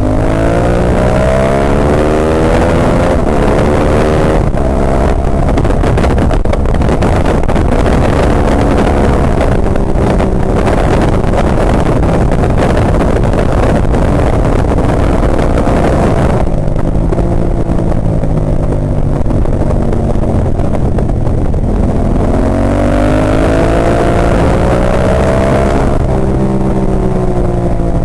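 Ducati 998's L-twin engine at race pace, heard from on board: it revs up with rising pitch, then runs under heavy wind rush for about ten seconds. It then drops to lower revs and accelerates again with the pitch climbing near the end.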